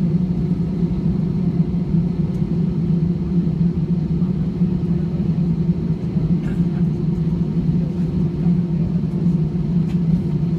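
Steady low drone of an airliner's cabin on the ground after landing, the idling jet engines and cabin air making an even hum that does not change.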